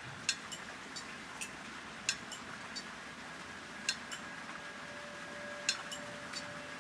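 Sound-art installation audio: light, irregular clinks, each short strike ringing briefly, about eight of them, over a soft hiss. A faint steady tone comes in about four and a half seconds in.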